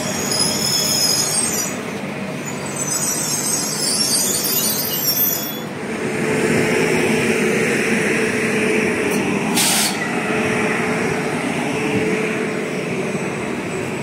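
Electric passenger train at a station platform: a high-pitched squeal in two stretches over the first five seconds, then the steady hum of the train's running equipment, with a brief hiss near ten seconds in.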